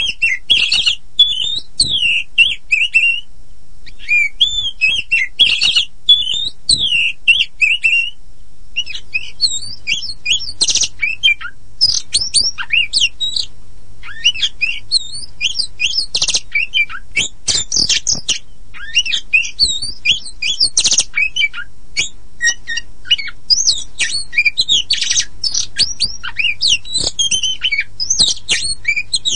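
Oriental magpie-robin of the black-and-white kacer poci form singing a long, varied song: rapid whistled phrases mixed with harsh scratchy notes and clicks, broken by short pauses.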